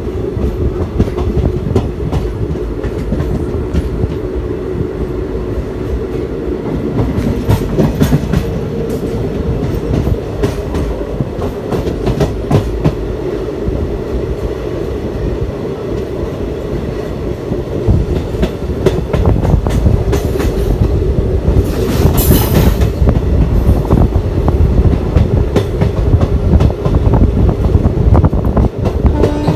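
Passenger train running along the track, its wheels clattering over rail joints over a steady rumble. A brief hiss comes about two-thirds of the way through.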